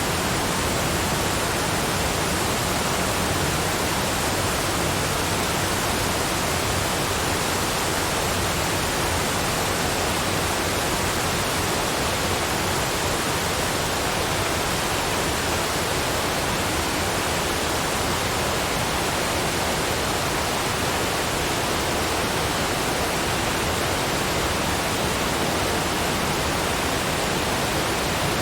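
Waterfall rushing steadily: an even, unbroken hiss of falling water with no changes.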